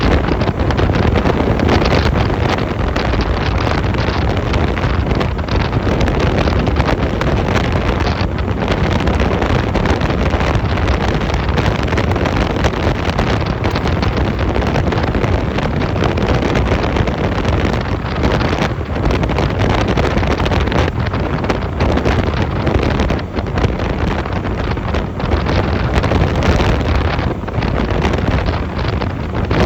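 Loud, steady wind rushing over the microphone of a moving Honda 250cc motorcycle, with the bike's engine and road noise running underneath.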